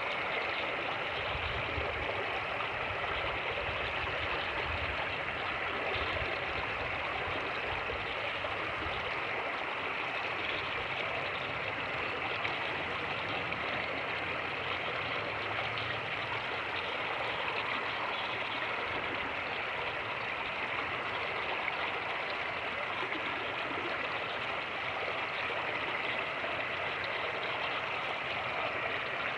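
Fast-moving creek rushing and splashing over rapids, a steady, unbroken water noise. Low, uneven wind rumble on the microphone comes through in the first half and dies away.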